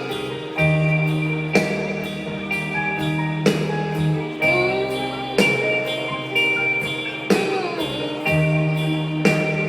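A live rock band playing an instrumental passage without vocals: held chords over a bass line, with a strong drum accent about every two seconds.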